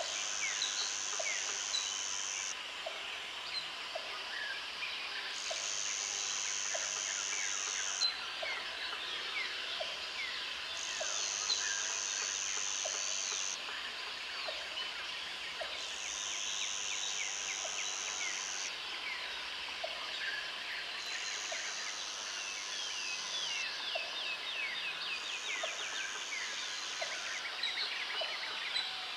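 Tropical forest ambience: a high insect buzz in blocks of about two to three seconds, repeating roughly every five seconds, over many birds chirping and calling. A low short note repeats about once a second throughout.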